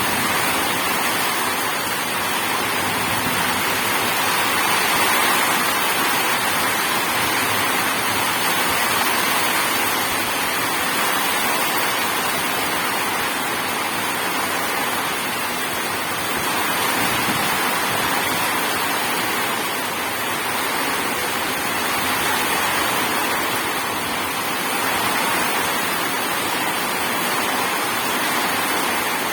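Steady heavy rainfall, an even hiss that swells and eases slowly, with no thunder heard.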